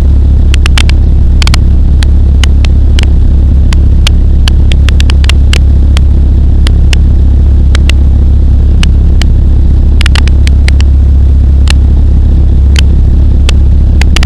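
Pulsar XP microlight aircraft's engine and propeller in cruise, a loud steady low drone heard on board, with scattered sharp clicks throughout.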